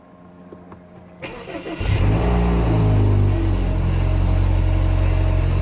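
BMW F30 3 Series engine being started: the starter cranks briefly about a second in, the engine catches and flares in revs, then the revs fall and it settles into a steady idle.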